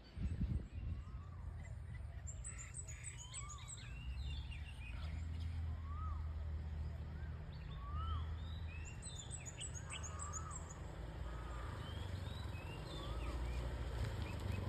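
Birds calling outdoors: many short chirps that rise and fall in pitch, repeated throughout, with two bursts of rapid, very high twittering, about two seconds in and again around nine seconds in. A low steady rumble runs underneath.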